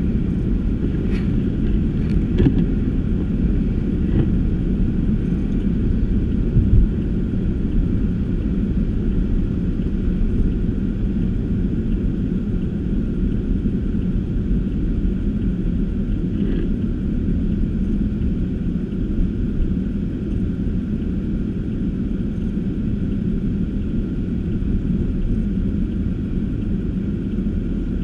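Car driving: a steady low rumble of engine and tyre road noise, with a few faint clicks in the first few seconds and one about halfway through.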